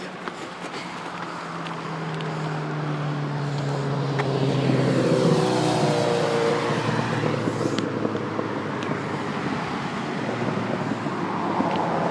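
A motor vehicle passing close by: its engine and tyre noise grows louder over the first few seconds, and the pitch drops as it goes past about five seconds in.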